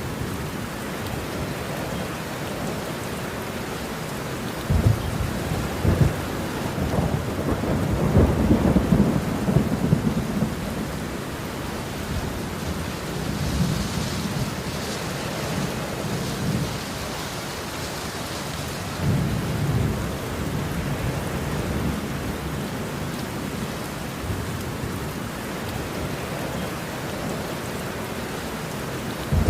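Steady rain with rolling thunder. The thunder swells in long low rumbles, loudest from about five to ten seconds in, with another rumble near twenty seconds.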